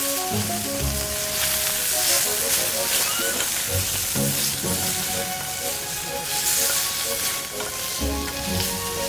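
Food sizzling and crackling in a frying pan as it fries.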